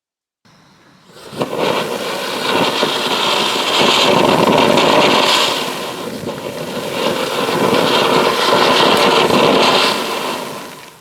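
Firework fountain burning: a loud, steady hissing spray with fine crackle, starting about a second in, swelling twice and dying down near the end.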